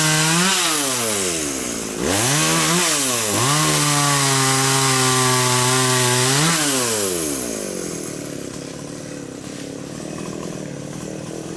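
Chainsaw cutting khaya (xà cừ) timber at full throttle. It dips about half a second in, comes back to full speed about two seconds in, then drops to a quieter idle about seven seconds in.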